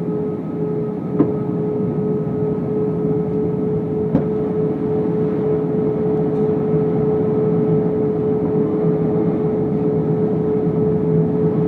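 Airbus A319 cabin noise: the steady drone of engines and airflow with a steady hum running through it. Two brief knocks, about a second in and about four seconds in.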